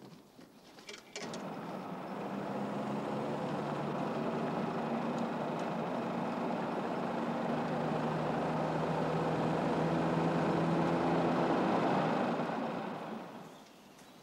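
Engine of a vintage Mercedes-Benz car running steadily as it drives up, slowly growing louder, then fading away near the end.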